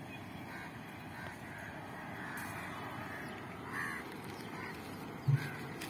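Birds calling in short, repeated chirps over a steady background hiss, with a brief low thump near the end.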